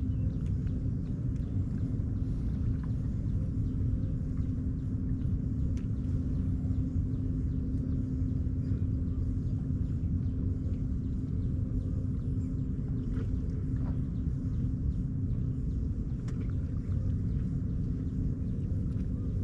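Steady low outdoor rumble with a constant low hum underneath and a few faint ticks scattered through it.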